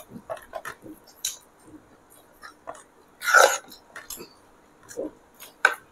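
Dahi puri being eaten quickly: crisp puri shells crunching and mouth-chewing noises in short irregular bursts, with one louder burst a little over three seconds in.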